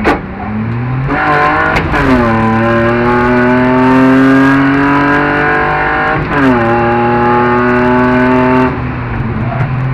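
BMW 320i rally car's straight-six engine at full throttle, heard from inside the cabin, climbing steadily in pitch through the gears with sharp pitch drops at upshifts about 2 and 6.4 seconds in, then easing off near the end. A sharp knock sounds right at the start.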